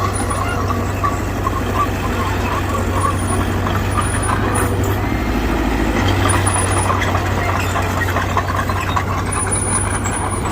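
Heavy diesel earthmoving machinery running: a steady, loud low engine drone with continuous metallic clatter, the engine note dipping briefly about five seconds in before picking up again.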